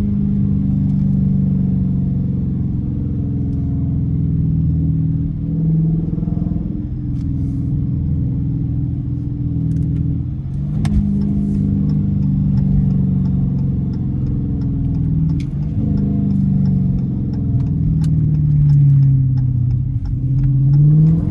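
Dodge Challenger R/T's 5.7-litre Hemi V8 through a straight-piped exhaust, driving through the gears: the engine note climbs and drops several times with the shifts, sinks low, then rises again near the end. A few sharp clicks sound over it.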